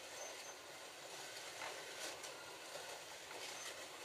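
Several slot cars running together around a plastic track: a steady whirr of small electric motors mixed with tyre and guide noise on the track.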